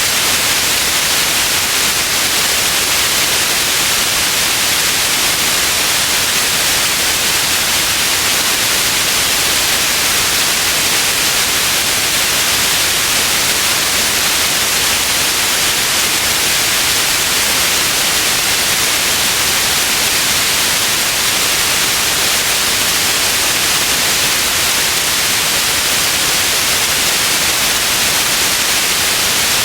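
Steady white noise: an even, unchanging hiss, brightest in the upper frequencies.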